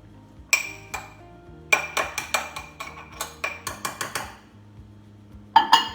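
A spoon clinking repeatedly against the cooking dish as the half-cooked egg and oat mixture is stirred between microwave runs: two knocks, then a quick run of about a dozen clinks, then a short cluster near the end. Background music plays under it.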